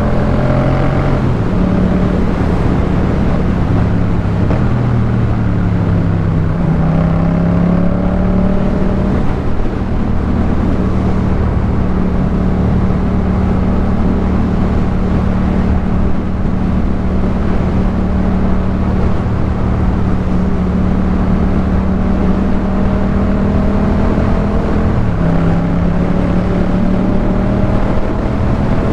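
2018 Yamaha MT-07's parallel-twin engine running through a Jeskap K4 full exhaust while being ridden. The engine speed climbs near the start and again about seven seconds in, then holds steady for a long stretch before rising once more near the end.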